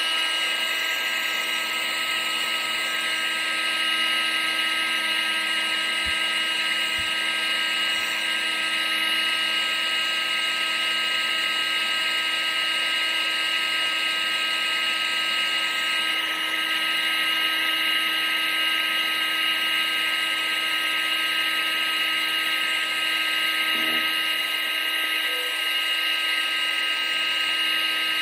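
Vacuum cleaner running steadily: an electric motor's high whine on several fixed pitches over the rush of air.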